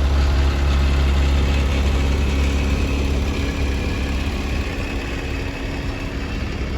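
An engine idling with a steady low drone, easing off a little after a few seconds.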